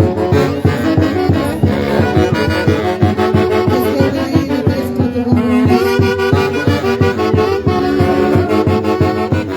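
A live Andean orquesta playing a dance tune, with saxophones and brass carrying the melody over a steady beat.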